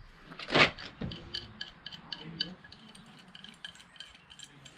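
Metal tools and mower parts being handled: a knock about half a second in, then a run of light metallic clicks and clinks.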